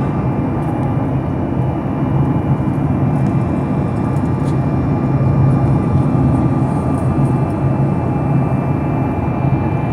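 Steady cabin drone of an airliner in flight, from the engines and the rushing air. It is a loud, unchanging low rumble with a faint steady whine above it.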